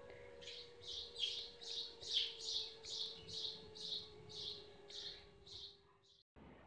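A bird chirping: a steady series of about a dozen short high notes, two or three a second, stopping about six seconds in.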